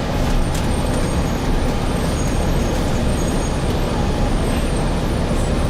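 Interior of a Gillig Phantom transit bus with a Voith transmission: a steady low rumble of the running bus, with a few light rattles near the start and a faint high whine partway through.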